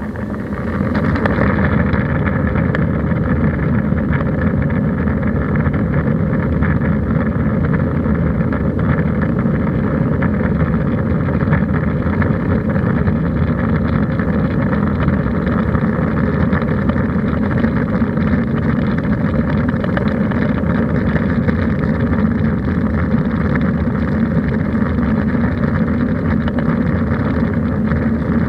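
Airbus A320's jet engines heard from inside the cabin, spooling up over the first second or so to takeoff thrust, then running loud and steady.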